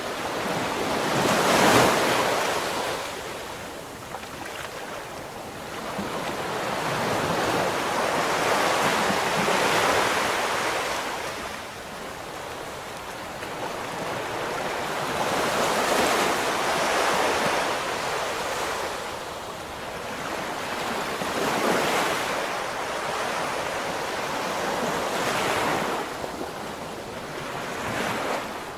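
Ocean waves breaking and washing up the shore, the rushing noise swelling and falling back every several seconds, loudest about two seconds in.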